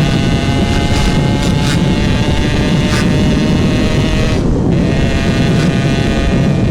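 Yamaha RX-King's two-stroke single-cylinder engine running under way through a GRT18 K26 aftermarket exhaust, a steady engine note with a brief dip about four and a half seconds in. Wind rushes over the microphone.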